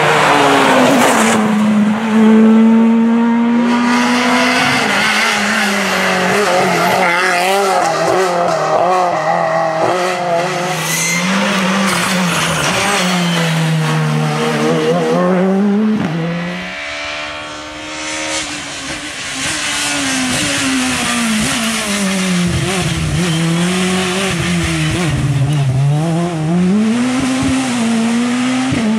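Rally cars being driven hard, engines revving up and down through gear changes, with tyres squealing and skidding on the loose surface. The sound dips and changes abruptly about sixteen seconds in.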